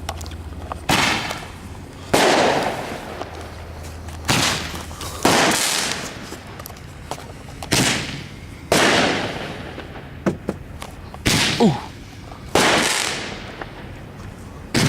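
Fireworks going off: about ten sharp bangs, roughly one every one to two seconds, each followed by a fading hiss.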